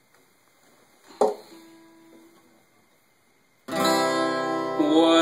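Acoustic guitar strumming chords, coming in suddenly about three and a half seconds in as the instrumental opening of a song. Before it, a single sharp knock about a second in, with a faint note ringing briefly after it.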